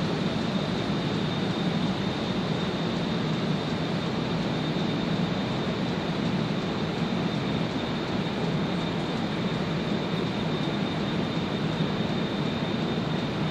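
Steady low rumble of trains in a station as one train slowly approaches along the platform tracks, with a thin steady high whine.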